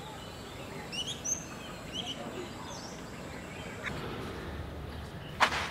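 Small birds chirping in short calls over a low steady background, with one sharp click or knock near the end that is the loudest sound.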